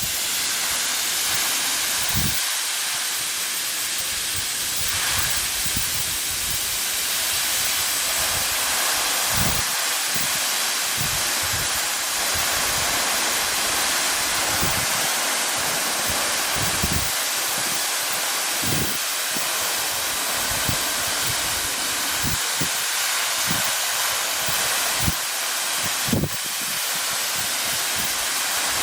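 A tall vertical waterfall, about 40 m high, pouring down: a steady rushing hiss of falling water, with scattered brief low thumps and one sharp knock near the end.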